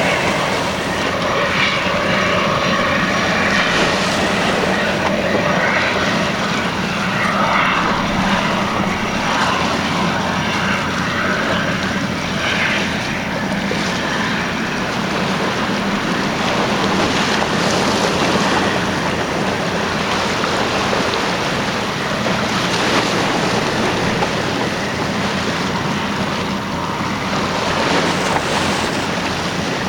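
Boeing jetfoil ferry running, a steady rush of its gas turbines and water jets with a faint whine in the first half, mixed with the wash of water and wind on the microphone.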